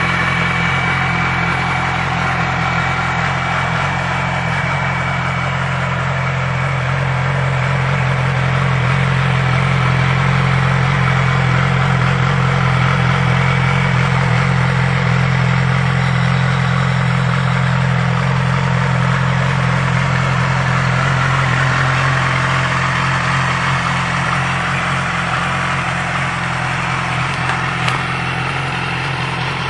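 2009 Yamaha R6's inline-four engine running steadily at idle.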